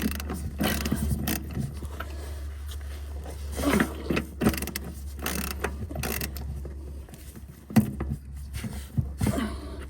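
Hand ratchet wrench clicking, with metal knocks, as a bolt is worked loose from a steel plate on an excavator's underside. A steady low hum runs underneath.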